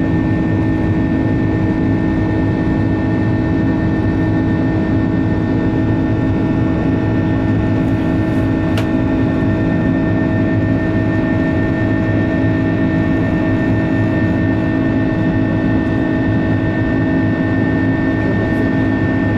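Airbus A330-200 jet engines heard from inside the passenger cabin: a steady drone with a few steady whining tones on top, unchanging as the airliner climbs out after takeoff.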